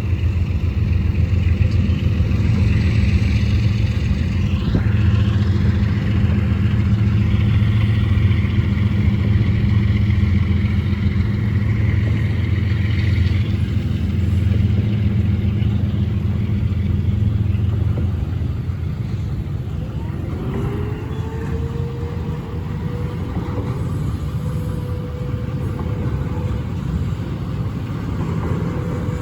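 Union Pacific intermodal freight train passing: a steady deep rumble that eases about two-thirds of the way through. Then a thin, steady whine rises in pitch, holds, and starts to fall near the end.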